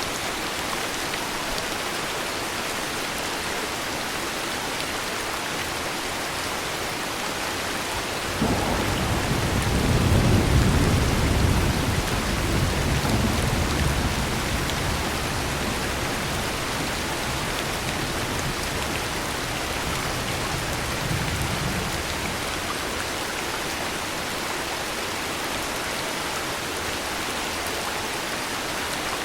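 Steady heavy rainfall with a roll of thunder that breaks in suddenly about eight seconds in, swells over the next few seconds and rumbles away, with a fainter rumble later on.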